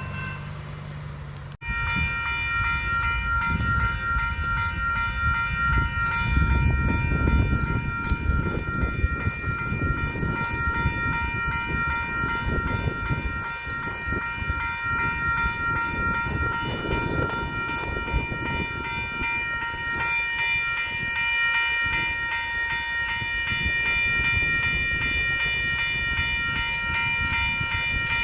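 A train running by with a heavy, uneven low rumble. Over it sounds a steady high ringing made of several tones at once. The sound cuts abruptly about a second and a half in, then the train noise resumes louder.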